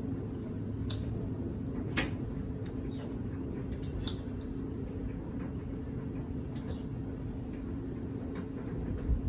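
Parrot eating: scattered sharp clicks and cracks of its beak on food, several seconds apart, over a steady low background hum.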